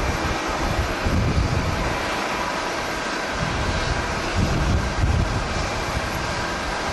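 Jet airliner engines, a steady loud hiss with a faint steady whine, while gusts of wind buffet the microphone with low rumbles, strongest in the first second or so and again about four to five seconds in.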